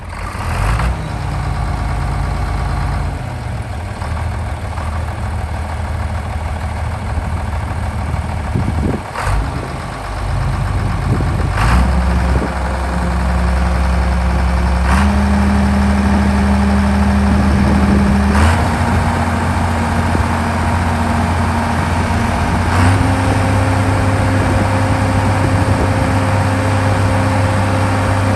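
John Deere 4430's six-cylinder turbo diesel engine running, its speed raised in several steps over the clip, each step held steady, with a short click at several of the changes.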